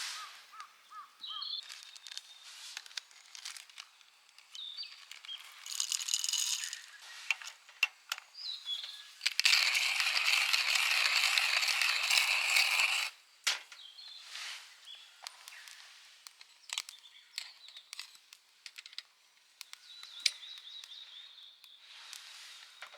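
Small birds chirping and calling in short high phrases, with scattered sharp clicks and a louder rush of noise lasting a few seconds near the middle.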